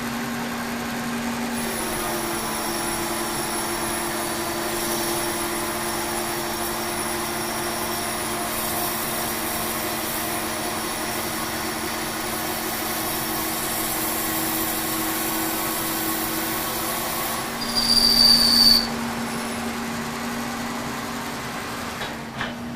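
The K&T 2HL milling machine, rigged as a lathe, is running and steadily turning the steel mounting plate for a chuck. About 18 seconds in there is a short, loud, high-pitched squeal lasting about a second.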